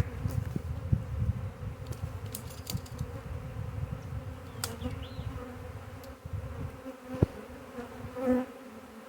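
Large honey bee swarm buzzing steadily in the air, with a single sharp click about seven seconds in.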